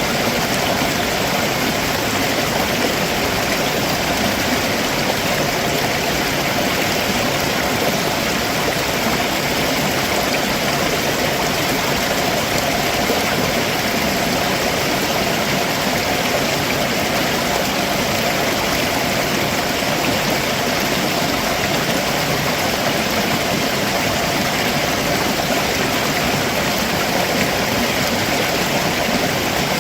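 Stream water rushing and splashing over rocks below a waterfall, a steady, even wash of sound.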